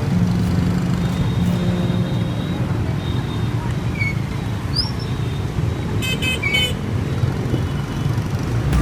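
Motorbike street traffic: a steady rumble of engines and road noise, with a vehicle horn beeping in a few quick short toots about six seconds in.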